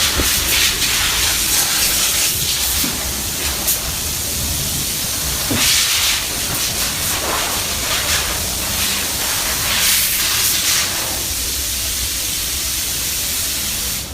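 High-pressure jet hissing steadily at a car wash, swelling a few times as it is swept over the car.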